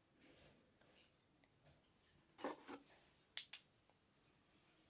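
Near silence with a few faint clicks and light knocks of small wooden sticks being handled and set in place, the sharpest about three and a half seconds in.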